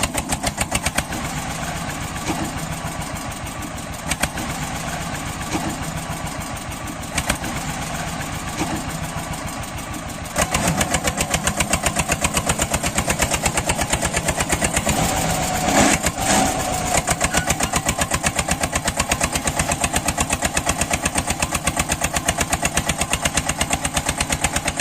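Mini tractor's small engine running with a fast, even chugging beat, getting louder about ten seconds in.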